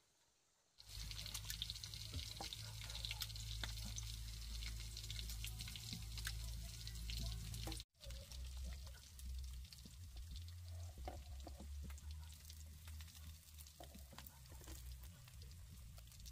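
Food frying in hot oil, sizzling with fine crackles over a steady low hum. The sound breaks off for an instant about eight seconds in, then goes on a little quieter.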